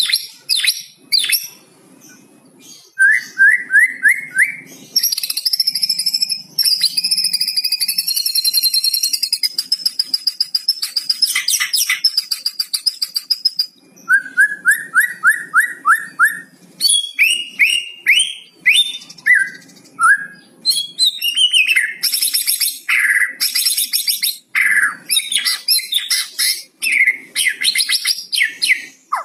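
White-rumped shama (murai batu) singing a loud, varied song. It gives a quick run of about six rising notes twice, a long rattling trill in between, and then rapid whistled phrases that slide up and down.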